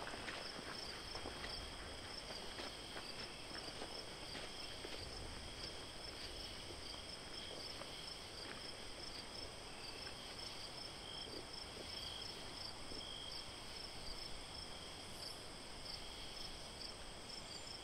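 Crickets chirping in a steady chorus, several high trills layered together, one of them pulsing quickly and evenly.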